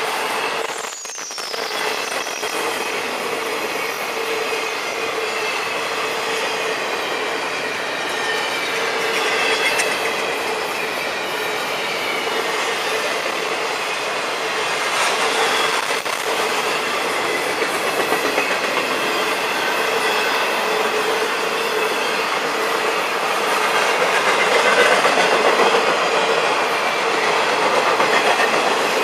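Florida East Coast Railway freight cars rolling past steadily, the wheels clattering on the rails and squealing high and continuously.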